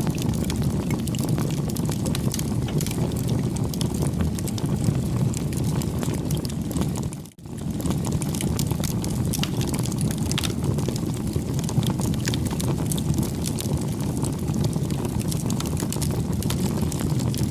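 Wood campfire burning: a steady low rush of flames with frequent small crackles and pops. The sound briefly drops out about seven seconds in, then returns.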